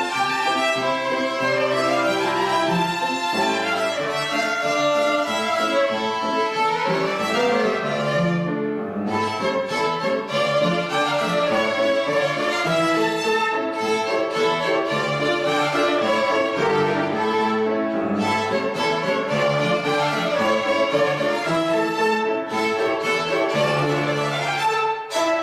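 Instrumental music led by a violin over bowed strings, playing sustained melodic notes.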